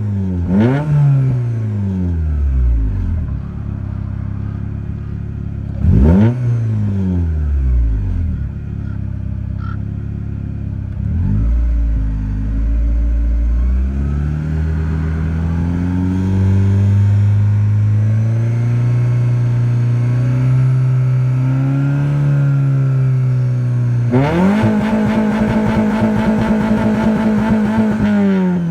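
Honda F22A6 2.2-litre four-cylinder engine through a muffler-deleted 2.25-inch straight-pipe exhaust, revved sharply twice and falling back, then climbing slowly and holding higher revs. Near the end it snaps up and holds against the rev limiter for about four seconds, stuttering rapidly, before dropping.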